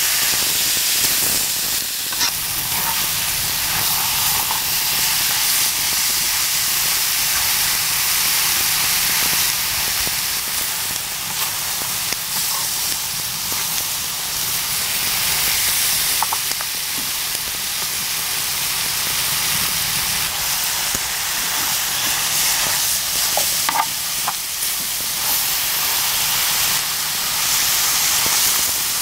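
Pork and kimchi sizzling as they are stir-fried on a hot cast-iron cauldron-lid griddle: a steady frying hiss, with a few short clicks.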